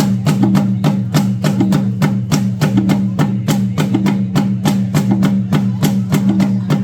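Music with a quick, even wooden clacking beat, about five clacks a second, over a steady low bass, the clacking fitting bamboo poles struck together for a bamboo dance.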